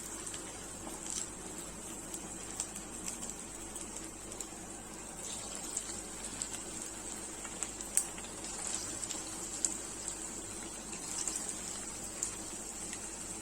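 Batter-coated chicken pakoda pieces deep-frying in hot oil: a steady sizzle with scattered small pops.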